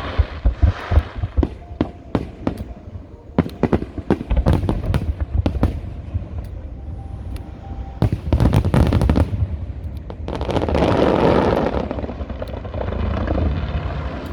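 Fireworks display: a run of sharp bangs from bursting shells, with a dense volley of cracks about eight seconds in and a rushing, crackling swell around eleven seconds.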